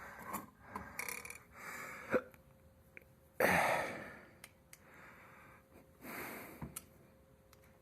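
A person breathing out hard twice, the louder breath about halfway through, with light clicks and taps of small metal hardware being handled in between.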